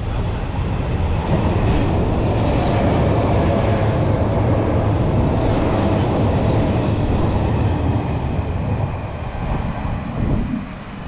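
Hanshin 8000 series electric train passing through the station at speed without stopping, a steady rumble of wheels on rails that builds about a second in and fades as it draws away near the end.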